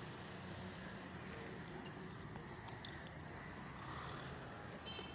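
A steady, low engine rumble with a few faint clicks.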